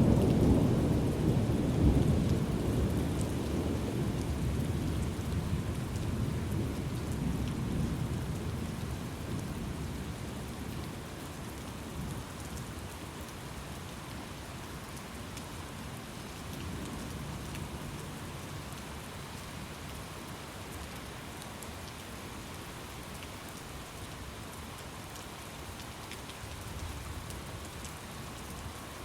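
Thunderstorm: a loud roll of thunder rumbles and slowly dies away over the first ten seconds or so, leaving steady rain with faint further rumbles later on.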